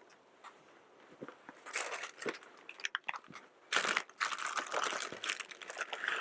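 Tortilla chips crunching and crackling as they are handled and laid into a cast iron skillet: a short spell of crackling about two seconds in, then a longer, louder one from about four seconds on.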